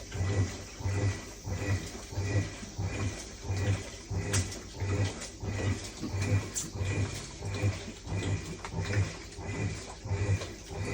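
Top-loading washing machine in its rinse cycle, the pulsator motor agitating the laundry in short humming pulses about twice a second as it reverses back and forth.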